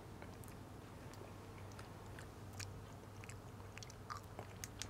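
Faint chewing, soft scattered mouth clicks over a low steady hum.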